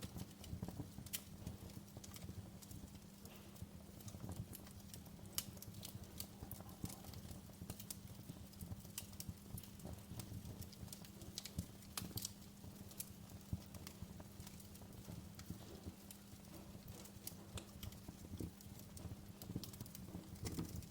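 Wood fire in a fireplace crackling, with irregular sharp pops and snaps over a steady low hum.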